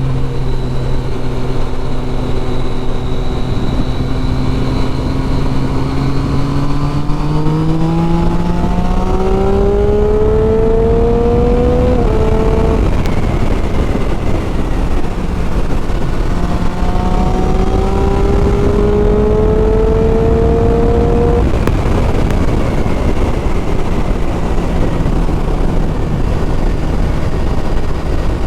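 Triumph Street Triple 675's three-cylinder engine, through a loud exhaust, pulling up in pitch under acceleration for about twelve seconds, dropping at an upshift, then rising again to another shift a few seconds later, over heavy wind rush.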